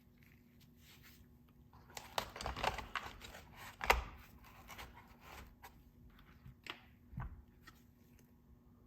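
Handling noises: a run of clicks and rustles starting about two seconds in, with one sharp click near four seconds and a dull knock near seven seconds.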